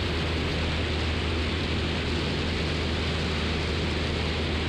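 Single-engine Cessna 172's four-cylinder Lycoming engine and propeller droning steadily in flight: a constant low hum under an even hiss.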